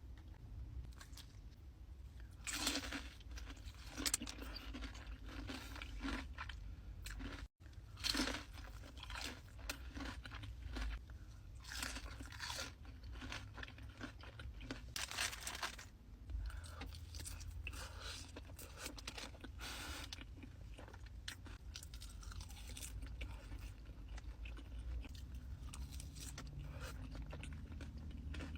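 Close-miked crunching and chewing of crispy food, bite after bite, with many short loud crunches and a brief cut-out about a third of the way in.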